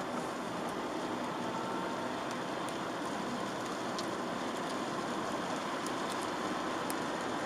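A Chevrolet Aveo with a 1.4 petrol engine driving on a wet road in the rain: a steady wash of tyre and rain noise with a faint engine hum, and a few light ticks of raindrops.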